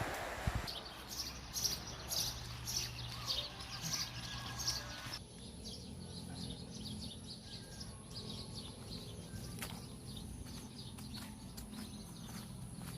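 Birds chirping, many short high calls over a steady low hum; the background changes abruptly about five seconds in, after which the chirps are fainter.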